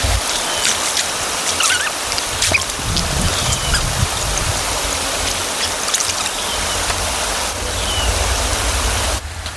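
Steady rushing water with scattered short clicks throughout.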